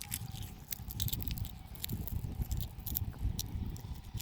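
Crackling rustle of crop plants, leaves and pods, in quick irregular snaps, over a low rumble of wind on the microphone.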